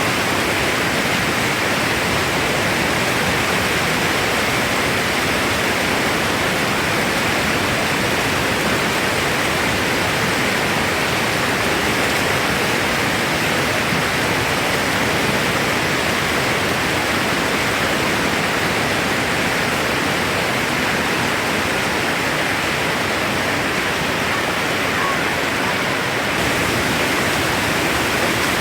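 Glacier-fed river rushing and tumbling over rocks: a steady, even rush of water with no breaks.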